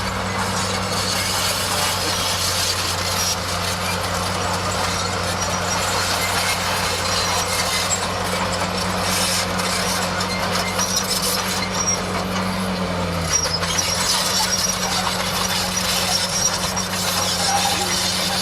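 Bulldozer's diesel engine running steadily under a continuous clatter of tracks and machinery. The engine note drops briefly about two-thirds of the way through, then picks back up.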